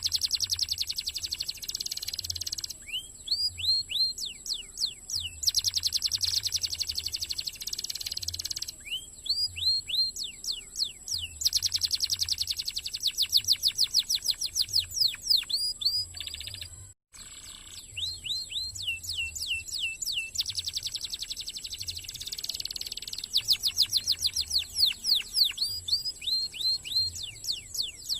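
Domestic canary singing a fast, dense song: long rapid trills alternating with runs of quick sweeping whistled notes, with a very brief break about two-thirds of the way through.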